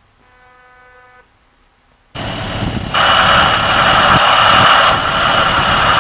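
Near quiet for about two seconds, then a sudden change to loud, steady engine noise from heavy work vehicles running, which grows louder about a second later.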